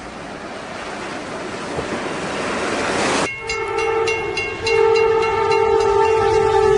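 A rising rush of noise as a train ploughs through snow, cut off abruptly about three seconds in by a locomotive horn chord that sounds, breaks briefly, then sounds again in a longer blast over rail clatter.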